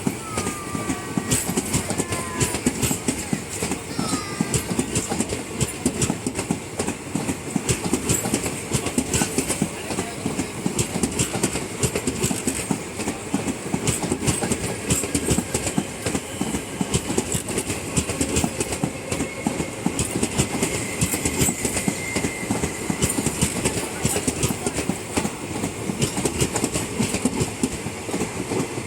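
Koyna Express passenger train moving slowly out of the station, its coaches' steel wheels clattering over the rail joints in a continuous, dense clatter.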